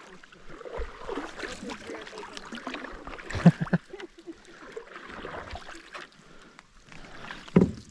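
Canoe paddling: paddle strokes dipping and splashing in the water, with a sharp knock about three and a half seconds in.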